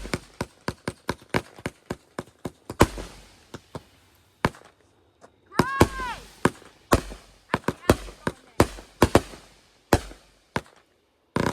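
Consumer fireworks going off: a rapid string of sharp cracks, about four a second, then irregular louder bangs with short crackling tails. A brief high tone that falls in pitch sounds about six seconds in.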